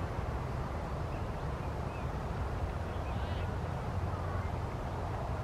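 A few faint, short bird calls, the clearest about three seconds in, over a steady low rumble.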